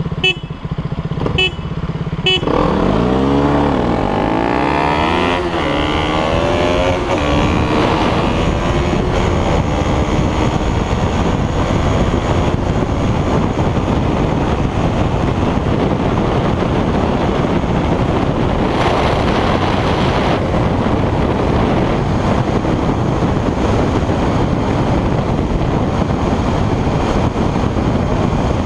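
A 200 cc single-cylinder motorcycle engine idling, then accelerating hard from about two seconds in, its pitch rising and dropping through several gear changes. From about eight seconds in a steady rush of wind on the microphone at speed covers the engine.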